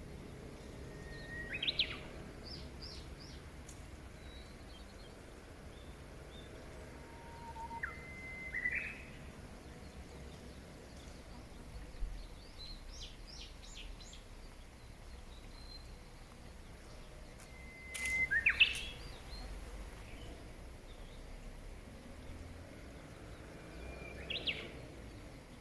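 Wild songbirds singing: one bird repeats a whistled phrase four times, each a held note that breaks into a quick rising flourish, while other birds give faint high chirps in between, over a steady background hiss.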